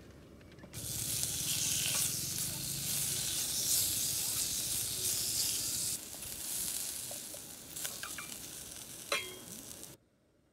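Sliced garlic and green vegetable stalks sizzling in oil in an enamelled cast-iron pot on a portable gas burner, turned with chopsticks. A sharp click comes about nine seconds in, and the sizzle drops out just before the end.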